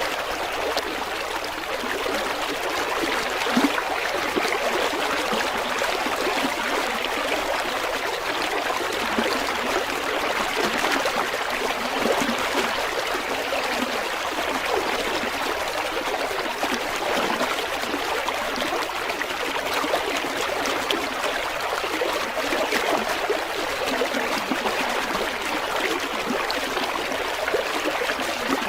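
River water running steadily, a continuous rushing and trickling babble.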